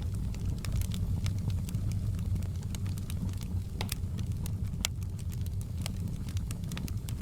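Wood fire burning in a fireplace, crackling with scattered sharp pops over a steady low rumble. Two louder pops come about four and five seconds in.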